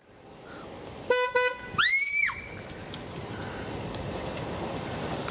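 Car horn tooted twice in quick succession, followed by a short high squeal that rises and falls in pitch.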